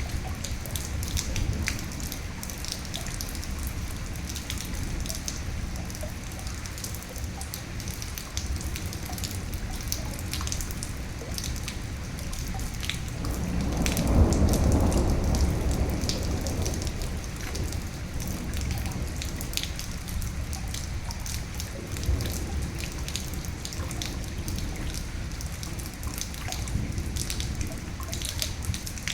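Steady rain with many distinct drops striking close by. About halfway through, a low roll of thunder swells up and slowly fades away.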